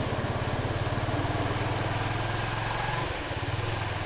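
Motorcycle engine running steadily at low revs, with a brief dip about three seconds in.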